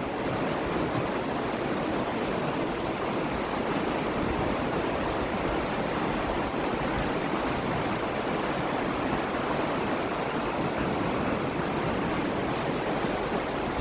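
Water of a waterfall and its river rushing, a steady even noise with no breaks.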